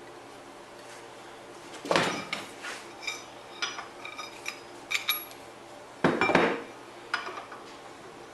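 Steel pieces clanking and clinking as they are handled and set down on a metal surface: a heavy clank about two seconds in and another about six seconds in, with lighter ringing metal clinks between and one more just after.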